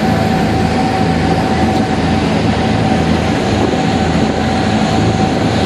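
Tour boat's engine running steadily underway, a low throbbing rumble under a loud rush of wind and water, with a steady high whine through most of it.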